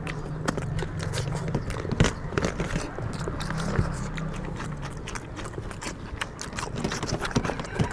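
People chewing and biting through chicken curry and rice, with irregular wet clicks and smacks. A low steady hum runs under the first five seconds or so.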